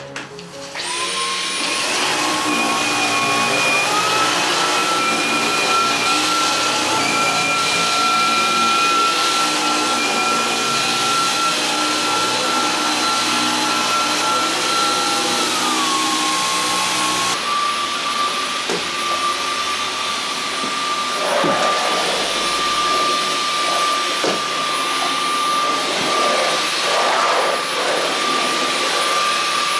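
Steady whir of a household appliance's electric motor and fan, switched on about a second in, with a whining tone that steps up in pitch around four seconds and changes again around sixteen to seventeen seconds. A few faint knocks come in the second half.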